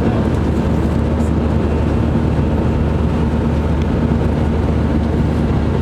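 Steady engine and airflow drone heard inside an Airbus A319's passenger cabin, an even, unchanging noise with a constant low hum.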